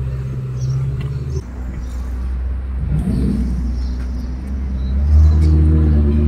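Ferrari engine running steadily. It eases off about a second and a half in, then grows clearly louder about five seconds in as the throttle is opened.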